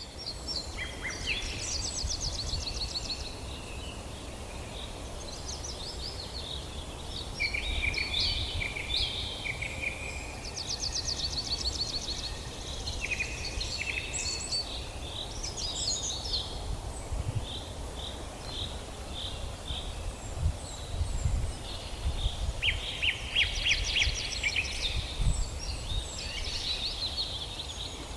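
Several songbirds singing together in a forest: overlapping chirps and rapid high trills, one after another, over a low background rumble.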